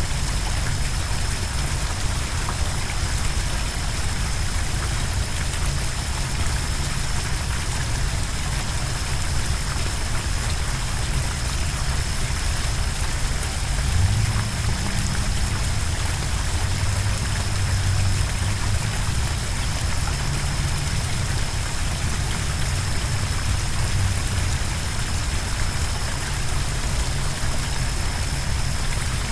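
Flowing water: a steady rush with a deep rumble underneath and a thin, steady high-pitched tone throughout.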